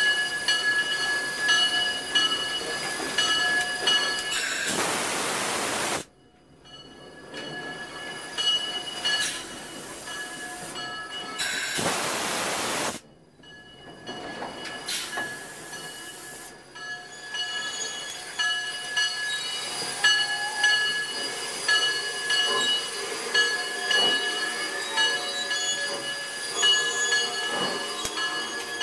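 Railway train rolling on the track, with a steady high squeal from the wheels. It is broken twice by a few seconds of loud rushing hiss, each ending abruptly.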